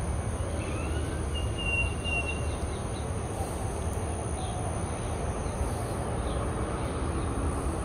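Birds chirping and whistling now and then over a steady low rumble and a steady high hiss; one longer level whistle comes about a second and a half in.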